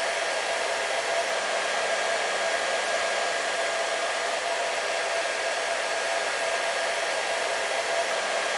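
Hair dryer running continuously: a steady rush of blown air with a constant hum from its motor.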